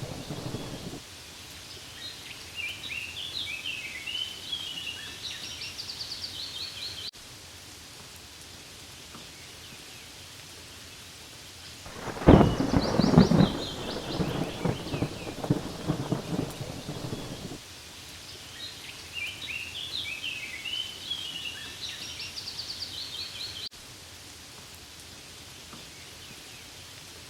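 Steady rain falling on leaves, with a low rumble of thunder about halfway through that swells and dies away over about five seconds, and the tail of another rumble right at the start. A high chirping pattern sounds twice over the rain.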